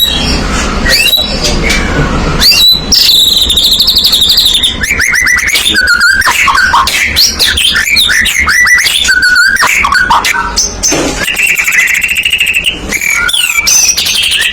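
White-rumped shama (murai batu) singing loudly in full, non-stop 'gacor' song: a rapid, varied string of clear whistles, rising and falling glides and fast trills with hardly a pause. This is the full territorial song of a male in top form, the kind used to provoke rival birds.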